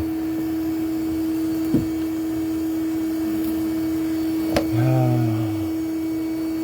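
A steady low hum at one fixed pitch, with two sharp clicks about two and four and a half seconds in, and a brief wordless voice sound just after the second click.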